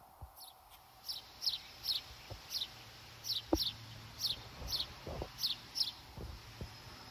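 A bird calling: a run of short, high chirps that each slide downward, mostly in pairs, about three a second, stopping about a second before the end. A few faint low thumps underneath.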